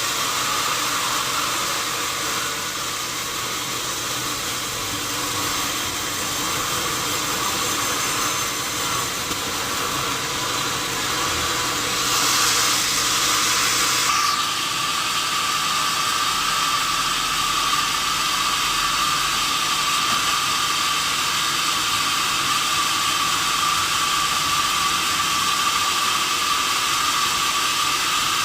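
Sawmill saw cutting through a wadang log: a steady, noisy whine with a constant high hum. About twelve seconds in it brightens into a brief rush, and the tone shifts slightly about two seconds later.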